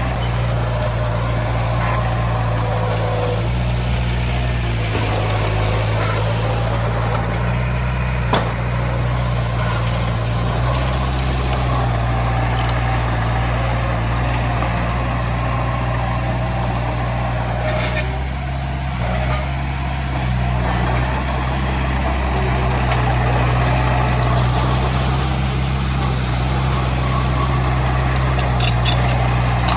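Heavy diesel earthmoving machinery running steadily, its engine note shifting slightly in pitch now and then, with one sharp knock about eight seconds in.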